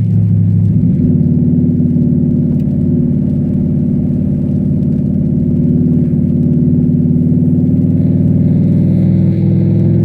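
Cadillac STS-V's supercharged V8 running steadily under load. The note changes briefly about a second in, then its pitch climbs slowly.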